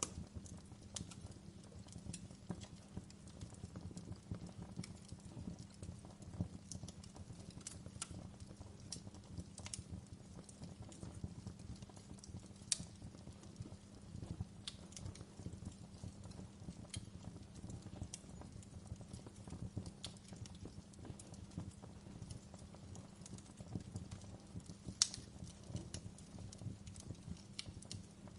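Wood fire crackling in a fireplace: irregular sharp pops and snaps over a steady low rumble of burning. A couple of snaps stand out louder, one about halfway through and one near the end.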